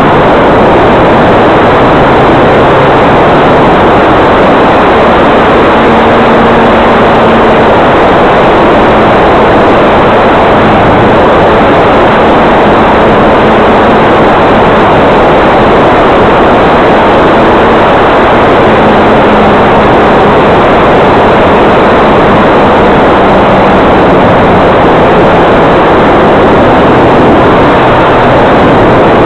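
Electric RC model plane's motor and propeller running in flight, a faint hum that wavers in pitch under a loud, steady rushing noise.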